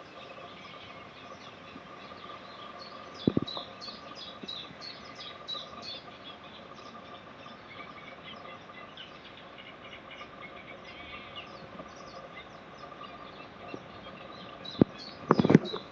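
Small birds chirping and singing over a steady faint hum, with the chirps densest in the first half. One sharp knock comes about three seconds in, and a cluster of knocks comes near the end.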